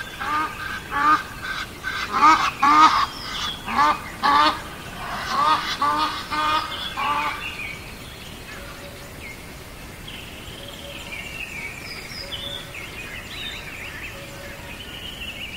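A large bird, goose-like, calling in a quick series, about two short calls a second, for the first seven seconds or so; fainter chirps and warbles of small birds follow.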